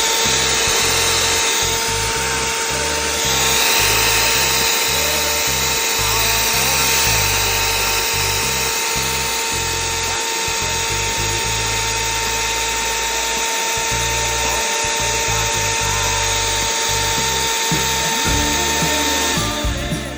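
Electrolux Q9 vacuum's fan motor running steadily at speed with a high whine, on test after the fan-motor repair. It cuts off near the end.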